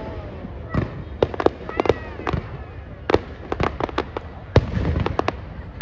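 Fireworks bursting overhead in an irregular run of over a dozen sharp bangs, some in quick clusters, the loudest about three-quarters of the way through.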